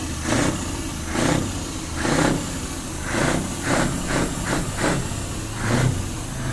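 Heavy truck engine running with a steady low rumble, punctuated by about a dozen short, louder bursts at uneven intervals, one or two a second.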